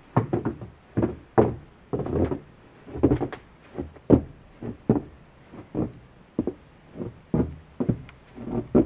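Footsteps: a series of uneven thuds, about one to two a second, made by someone walking.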